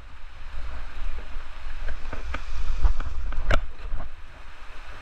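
A canyoner's bum slide down a wet rock chute: a steady rumble and rushing noise with a few sharp knocks and scrapes in the middle, the loudest about three and a half seconds in.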